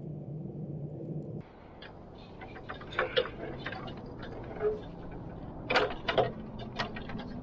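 A steady low hum that stops abruptly about a second and a half in, followed by scattered, irregular knocks and clicks.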